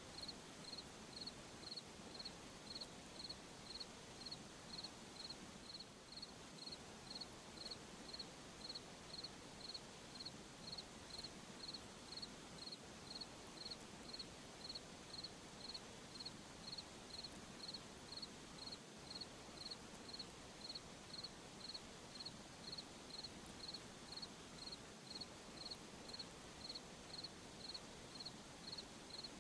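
Crickets chirping at night: a faint, steady rhythm of short high-pitched chirps, about one and a half a second, over a soft hiss of night insects.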